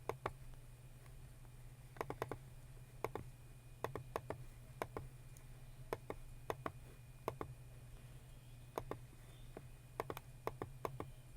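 Computer keyboard keys clicking in slow, irregular clusters of two to four strokes with pauses between, over a steady low hum.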